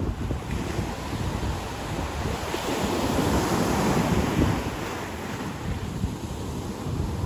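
Ocean surf washing on the beach, a wave swelling louder and fading again around the middle, with wind buffeting the microphone throughout.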